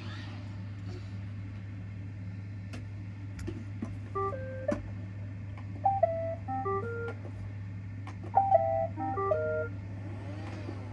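A robot vacuum's speaker playing short electronic chime tunes: three runs of stepped beeps, the first about four seconds in and the last near the end, over a steady low hum.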